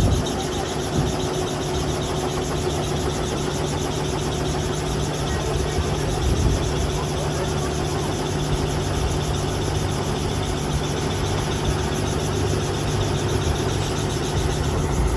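Helicopter engine and rotor running steadily with an even hum and a fast regular pulsing.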